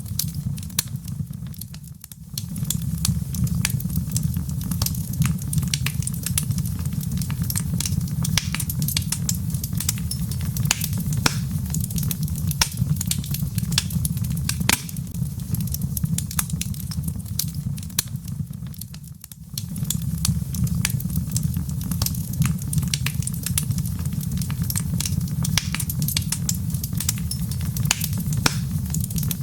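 Log fire burning in a fireplace: dense, irregular crackles and pops of burning wood over a steady low rumble of the flames. The rumble dips away briefly twice.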